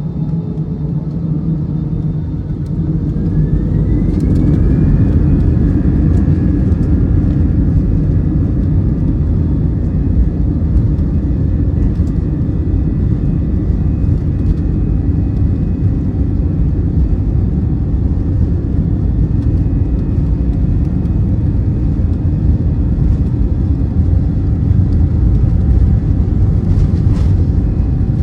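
Airbus A320's CFM56 engines heard from inside the cabin, spooling up with a rising whine a few seconds in and then holding a steady, loud rumble at takeoff thrust.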